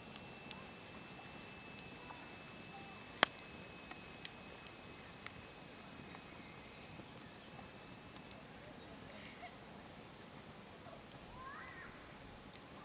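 Wood campfire crackling, with scattered sharp pops and one loud snap about three seconds in, over a faint steady hiss. A thin steady high tone runs through the first part.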